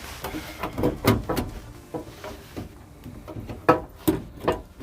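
Window motor and regulator hardware being worked by hand inside a car door: a string of irregular knocks and clunks, with sharper ones about a second in and toward the end.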